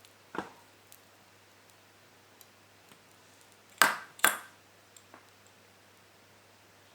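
Small metal parts and tools handled on a workbench during soldering: a soft click near the start, then two sharp taps about half a second apart a little before the middle, over a faint steady hum.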